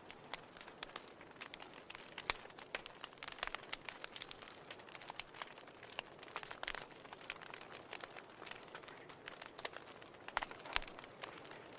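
Wood fire crackling in a fireplace: irregular sharp pops and snaps over a steady soft hiss, with a few louder snaps now and then.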